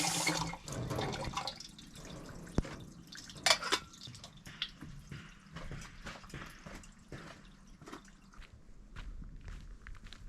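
Water dripping in irregular drops with small light ticks over a faint trickle.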